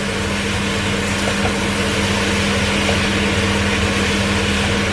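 Pork belly, onion and garlic sizzling in a wok as they are stir-fried, over a steady low hum.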